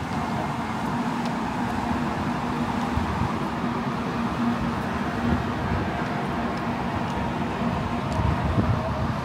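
923 series Doctor Yellow Shinkansen inspection train rolling slowly past at close range: a steady hum over a low rumble.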